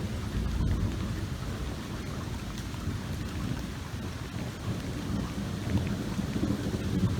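Thunder rumbling low and continuously over steady rain falling, the rumble building near the end.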